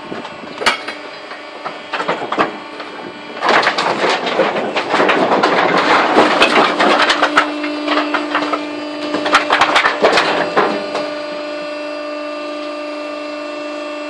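Wood tumbling down a sawmill hopper chute into a truck: a few separate knocks, then about seven seconds of dense wooden clattering and splintering that stops suddenly. A steady machine hum runs under the second half and is left alone near the end.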